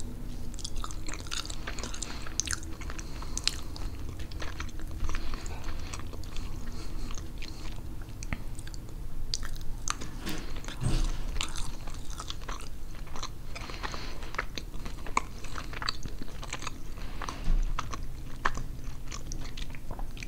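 Close-miked chewing of pernil (roast pork) with rice and beans: a steady run of small, irregular wet mouth clicks and smacks.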